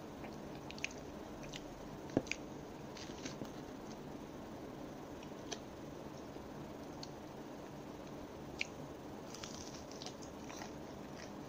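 Close-miked chewing of crispy breaded chicken nuggets, with scattered sharp crunches and wet mouth clicks over a steady hiss; a new bite into a nugget comes near the end.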